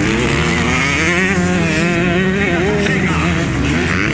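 Motocross motorcycle engines revving, their pitch rising and falling, with a steadier low engine drone underneath.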